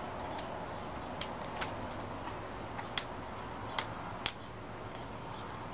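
Scattered light metallic clicks at uneven spacing, about seven of them, from an Allen key and a small screw being handled and fitted into a paintball marker's body.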